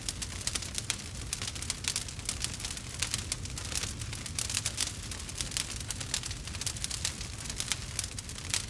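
Wood fire in a fireplace crackling: dense, irregular sharp pops and snaps over a low steady rumble of the burning logs.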